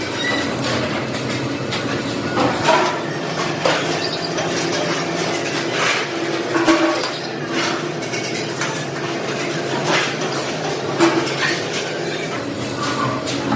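Factory floor noise: a steady machinery din with metal parts clinking and knocking at irregular moments.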